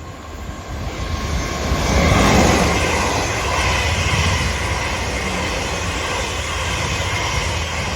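Two coupled Class 444 electric multiple units passing through the station without stopping: a rush of wheel and rail noise that builds over the first two seconds, then holds steady as the coaches go by.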